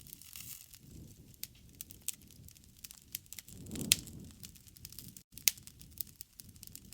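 Wood fire crackling: a low rumble of burning with irregular sharp pops and snaps, the loudest a little after halfway.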